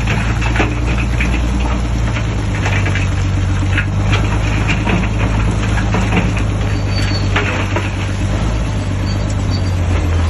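Bulldozer's diesel engine running steadily under load, with irregular clanks and rattles throughout.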